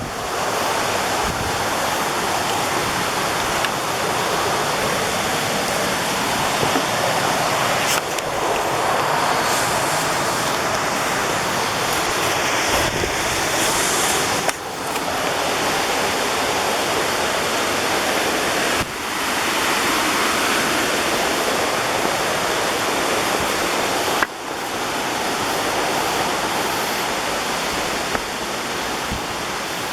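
Waterfall rushing steadily, with the level briefly dropping and coming back four times.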